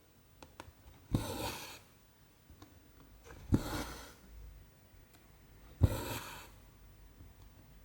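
Needle and cotton thread pulled through 14-count cross-stitch canvas: three strokes about two seconds apart, each a sharp pop as the needle passes through followed by a short hiss of thread drawn through the fabric. A few faint ticks come just before the first stroke.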